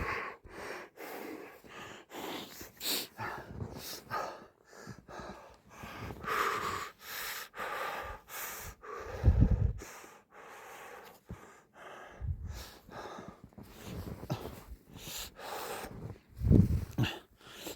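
A person breathing hard and gasping, with rustling and two low thuds, about halfway through and near the end.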